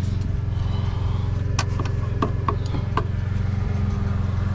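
Steady low machine hum, with a handful of light knocks and clicks near the middle.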